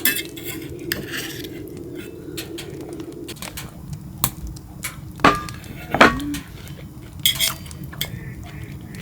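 Glass and utensils clinking and knocking while a whisky highball is mixed: scattered sharp taps, the loudest about five and six seconds in. A low steady hum runs underneath and stops about three seconds in.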